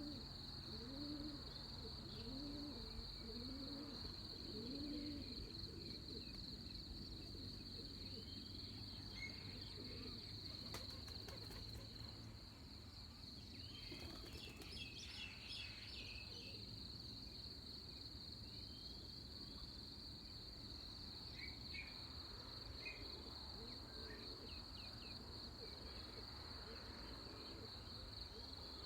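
Pre-dawn rural chorus: a steady, high-pitched insect drone with scattered short bird chirps. In the first few seconds a low, hooting bird call repeats about once a second.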